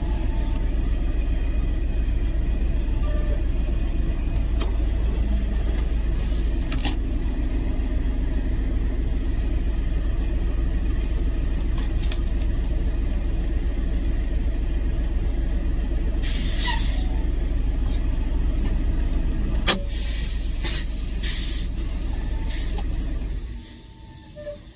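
Steady, heavy low rumble of a truck, with a few sharp clicks and short hisses near the end; the rumble stops abruptly about a second before the end.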